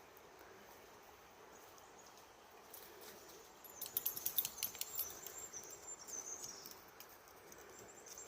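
Small bird twittering, a quick burst of sharp high chirps about four seconds in followed by thin high notes, over the faint steady rush of a river.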